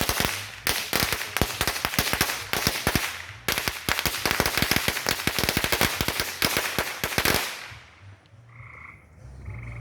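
Firecrackers going off in a rapid, dense run of sharp pops that stops suddenly about seven and a half seconds in.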